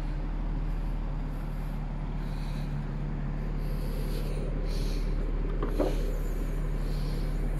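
Jaguar XJS 4.0's straight-six engine idling steadily, with a short clunk a little past halfway through.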